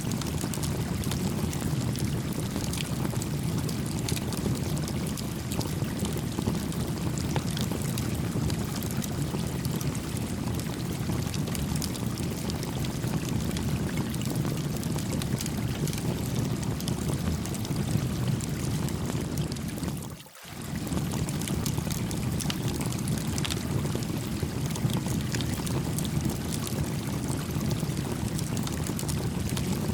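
A stream babbling steadily, with a small wood campfire crackling over it in scattered faint pops. The sound drops out for a moment about two-thirds of the way through, then carries on unchanged.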